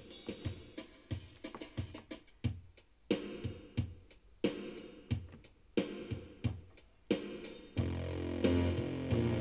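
Yamaha PSR-E303 keyboard playing an electronic drum pattern with bass notes, evenly spaced beats. About eight seconds in it changes to a fuller sound of held chords over a steady bass.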